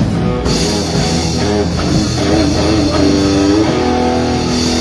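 Live rock band playing an instrumental passage between sung lines, with guitar to the fore over bass and drums and notes held from about two seconds in.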